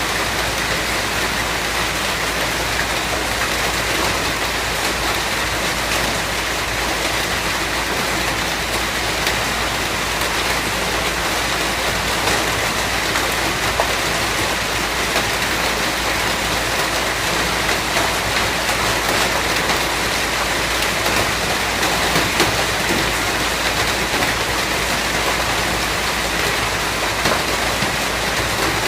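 Steady rain falling, an even hiss with scattered louder drop hits.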